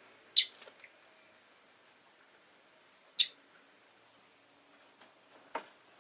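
Rosy-faced lovebird giving two short, sharp, high chirps about three seconds apart, with a softer, lower click near the end.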